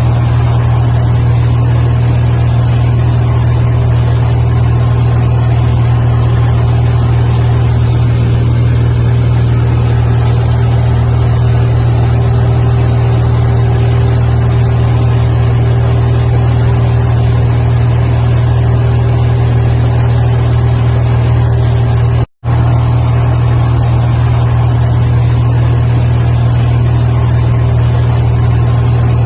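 Steady, loud drone of an airliner in cruise heard from inside the cockpit. The low engine and airflow hum holds constant and cuts out for an instant about 22 seconds in.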